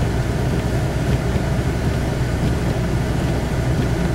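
Steady in-cabin rumble of a car being driven slowly, engine and road noise with no distinct events.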